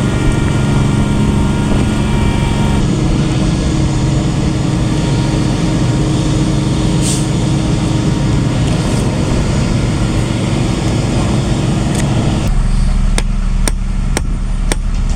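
Heavy diesel construction machinery running loudly and steadily. About twelve seconds in the rumble changes, and several sharp clicks or knocks follow near the end.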